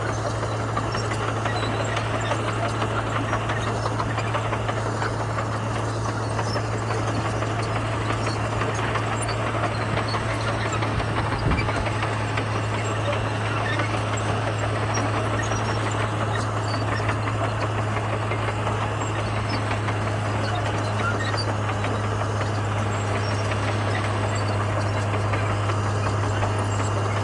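Komatsu bulldozer's diesel engine running steadily at a constant low pitch, with a single low knock a little before the middle.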